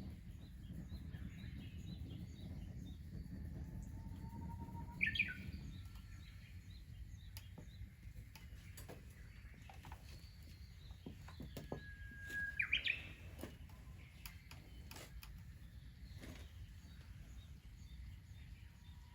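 Birds singing: one bird repeats a phrase of a held whistle followed by a quick, higher flourish about every seven or eight seconds, over smaller chirps from other birds. A low rumbling background eases about six seconds in, and there are scattered faint clicks.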